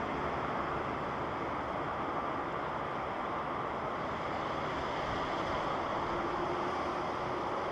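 Jet airliner on approach to land, a steady broad roar with a faint engine tone coming in near the end.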